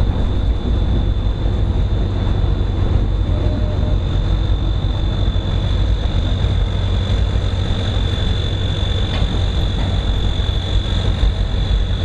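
Narrow-gauge train running along the track, heard from aboard as a steady low rumble.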